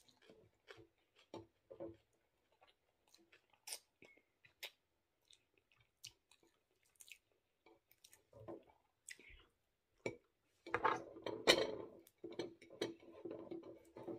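A person chewing a mouthful of food close to the microphone, with scattered small clicks and smacks. The chewing grows denser and louder about eleven seconds in.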